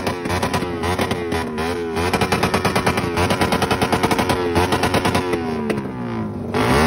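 Race-built underbone motorcycle engine with twin throttle bodies and an open aftermarket exhaust, revved hard and repeatedly at a standstill, the pitch climbing and falling with each throttle blip. In the middle it holds high revs with a fast, even stutter. Near the end the revs drop and then climb again.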